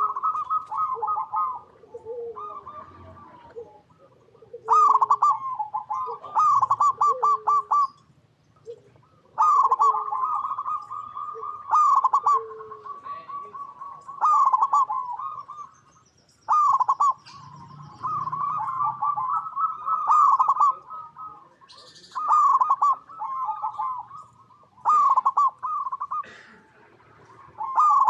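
Zebra dove (perkutut) song: bursts of fast rolling, trilled coos repeated every couple of seconds, with a lower short coo recurring between the bursts.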